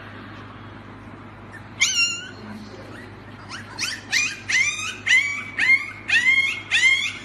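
Husky puppy crying in high-pitched whining yelps: one cry about two seconds in, then a run of repeated cries, about two a second, through the second half.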